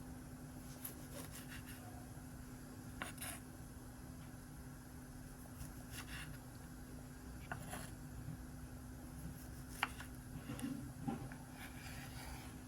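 Scattered light clicks and knocks of kitchen food preparation over a steady low hum.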